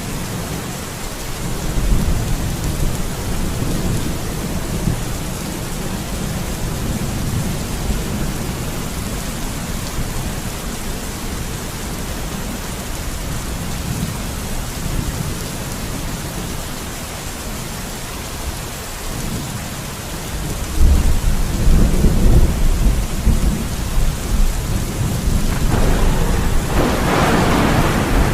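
Steady rain falling through a thunderstorm, with low thunder rumbling. A louder thunder roll builds about 21 seconds in, and a sharper crack comes near the end.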